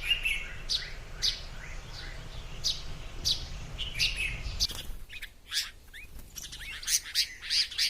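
Small birds chirping: short high notes repeated about once or twice a second, becoming denser and overlapping near the end. A low rumble sits under the first half.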